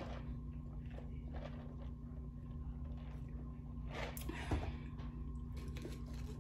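Quiet chewing and mouth sounds of someone eating, over a steady low hum, with a soft knock about four and a half seconds in as a plastic drink cup is set down on the counter.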